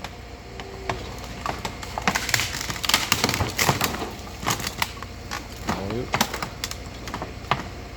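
Upside-down car being winched onto a flatbed trailer, its bodywork scraping and crunching in a run of irregular sharp cracks and creaks that thickens from about two seconds in.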